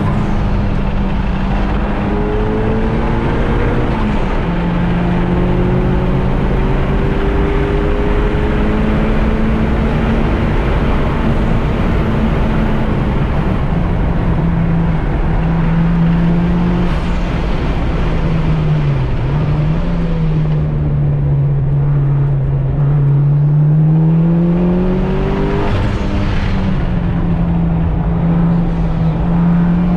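Mitsubishi Lancer Evolution IX's turbocharged 2.0-litre 4G63 inline-four running hard at track pace on its freshly rebuilt engine. The engine note holds fairly steady, dips about two-thirds of the way through, then climbs again.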